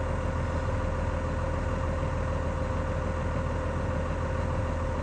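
Farm truck's engine idling steadily with a constant hum.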